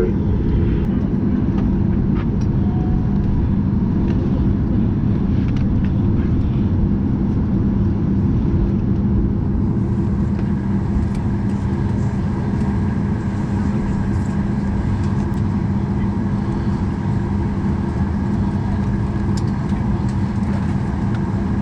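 Steady cabin noise of a Boeing 737 MAX 8 taxiing after landing: a continuous rumble with a steady low hum from the engines at idle and the air system, and a few faint clicks.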